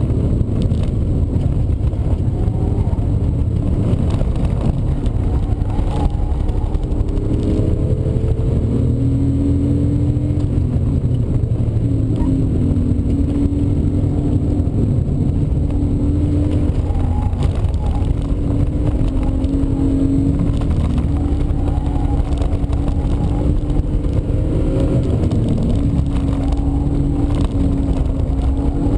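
BMW E36 320i's 2.0-litre straight-six engine under hard track driving, heard from inside the cabin. Its note rises and falls again and again as it accelerates, lifts and shifts through corners, over a steady low rumble.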